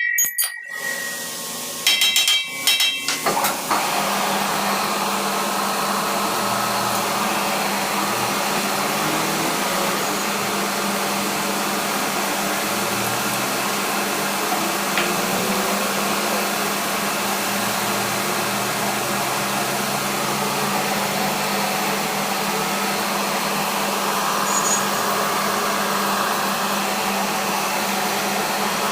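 A few ringing metal strikes in the first seconds, then a powered workshop machine starts up and runs steadily with an even hum and rush of air, unchanging to the end.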